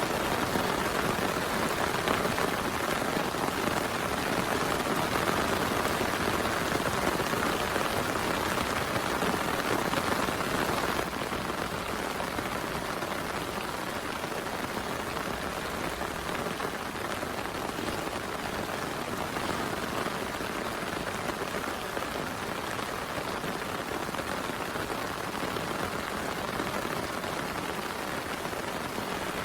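Heavy rain falling steadily, a dense even hiss of drops, a little quieter from about eleven seconds in.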